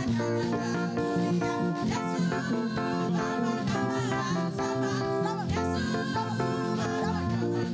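Live church praise band music led by plucked guitars over bass guitar, playing a steady groove.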